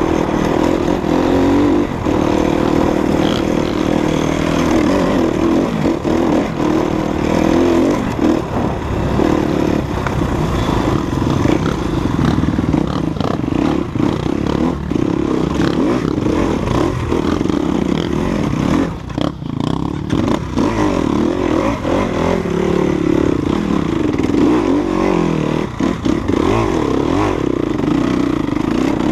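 Enduro dirt bike engine running on a trail, the throttle rising and easing off, with rattling and clatter from the rough ground; it briefly drops off about two-thirds of the way through.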